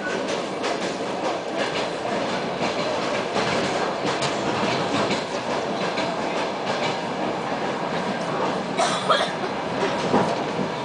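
ED9M electric multiple unit running at speed, heard from inside the passenger car: a steady rumble of wheels on rail with scattered clicks from rail joints. A sharper, louder clatter comes about nine seconds in and again near the end.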